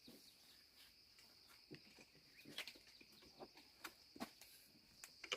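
Faint, steady high-pitched insect chirring, with scattered small clicks and knocks.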